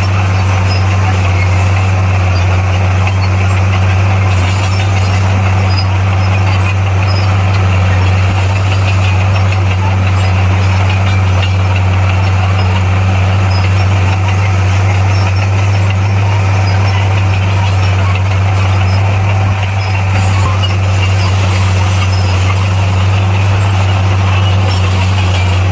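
Bulldozer's diesel engine running steadily under work, a constant low drone with an even rattle of noise over it.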